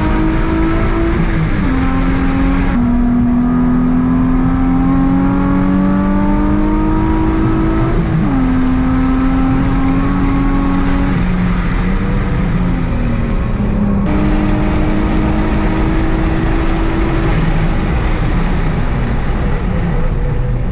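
Nissan 350Z's 3.5-litre V6 heard from inside the cabin while lapping a track. The engine note climbs in pitch under acceleration and drops sharply at each gear change, with lower, falling stretches as the car slows.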